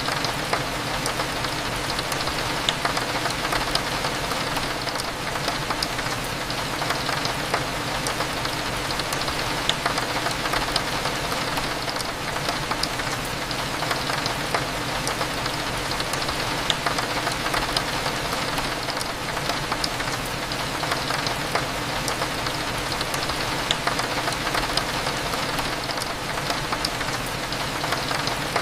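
Steady rain, with many small sharp raindrop taps scattered through it, over a low steady hum.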